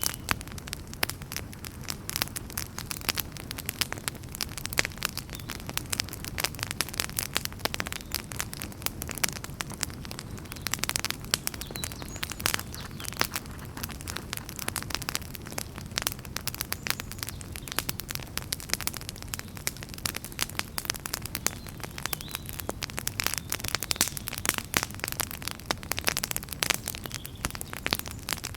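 Wood fire in a fireplace crackling steadily: many quick pops and snaps, some louder than others, over a low rumble of the flames.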